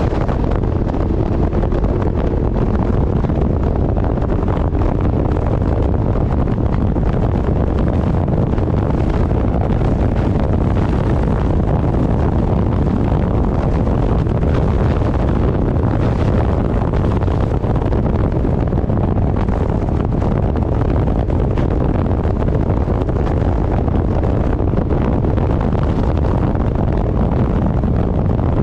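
Loud, steady wind noise buffeting the microphone of a motorcycle riding at speed, with the low rush of the ride beneath it.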